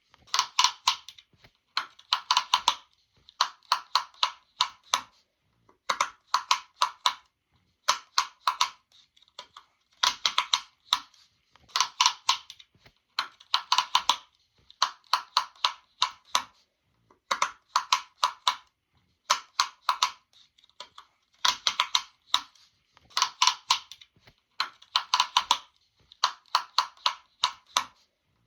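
Rapid clusters of sharp popping clicks, four to six quick pops at a time, repeating about every one and a half to two seconds.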